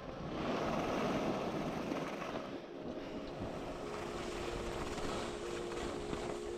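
Steady rushing noise of skiing downhill, wind and skis sliding on snow, with a held chord of background music coming in about halfway.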